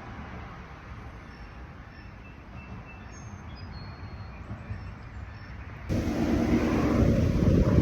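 Outdoor breeze: a soft steady hiss with a few faint high chirps, then about six seconds in a gust hits the microphone and turns into loud, rumbling wind buffeting.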